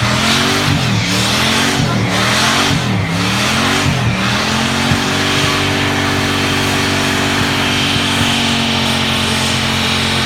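Muscle car engine revved repeatedly, rising and falling about once a second, then held at steady high revs with a hissing noise over it, as in a burnout.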